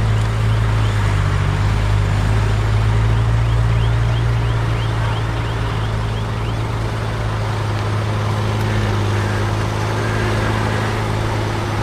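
Diesel engine of heavy earthmoving equipment running steadily with a strong low hum. Faint high squeaks repeat through the first half.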